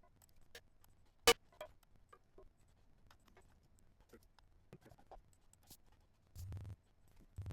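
Faint, scattered clicks of a computer mouse during audio editing, one sharper click a little over a second in, and a brief rub or rustle near the end.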